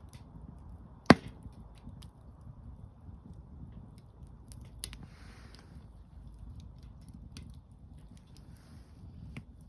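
Wood campfire crackling, with scattered sharp pops over a steady low rush, one loud snap about a second in, and a brief hiss around five seconds.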